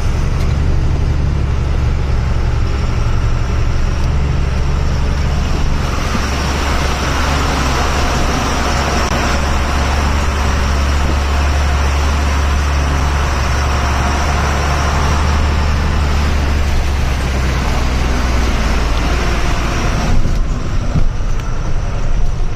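Truck engine running steadily as it drives along a wet road. From about six seconds in until near the end, a loud rushing hiss of water covers it.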